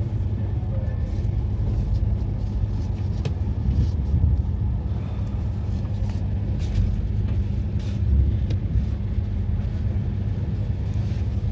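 A passenger train running, heard as a steady low rumble with a few faint clicks and knocks.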